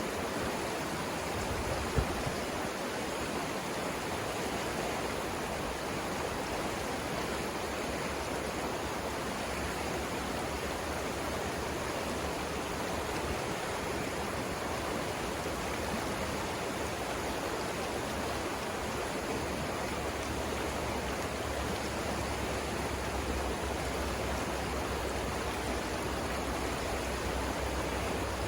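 Savannah River rapids rushing steadily, an even wash of water noise. A single sharp click about two seconds in.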